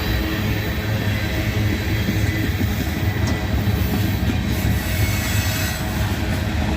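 Freight train cars rolling past: a steady rumble of steel wheels on the rails, with a faint thin squeal from the wheels.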